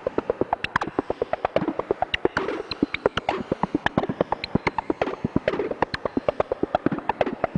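Korg Volca Modular synthesizer playing a noise patch: a fast, uneven stream of short clicks and pitched blips, about eight to ten a second, jumping between pitches, with bursts of hiss among them.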